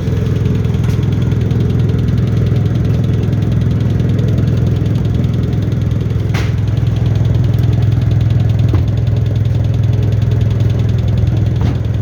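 A heavy engine running steadily at an even speed, with a few faint clicks over it.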